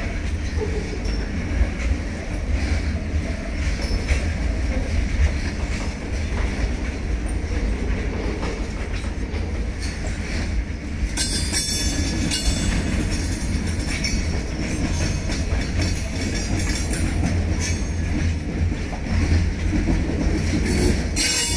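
Indian Railways BOSTHSM open freight wagons rolling past at steady speed: a continuous rumble and clatter of steel wheels on the rails. A high-pitched wheel screech rises about eleven seconds in and again near the end.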